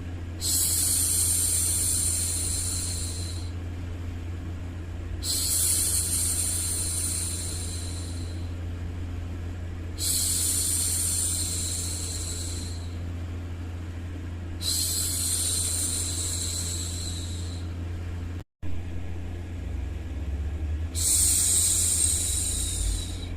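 A woman's voice making long hushing "shhh" sounds, five in all, each held for two to three seconds and repeating about every five seconds. Under them runs a steady low hum of white noise, which cuts out for an instant about 18 seconds in.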